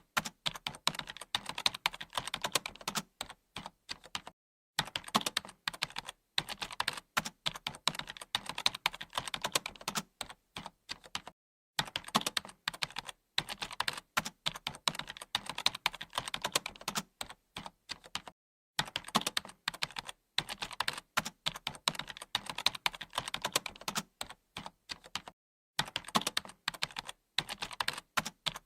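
Computer keyboard being typed on: rapid continuous key clicks in runs, broken by brief pauses of silence about every seven seconds.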